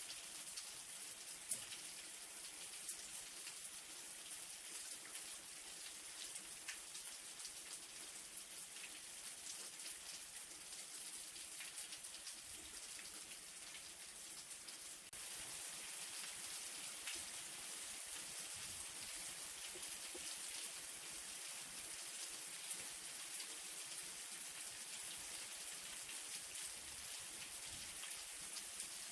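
Light rain falling steadily, an even hiss with the patter of individual drops. About halfway through it turns abruptly a little louder.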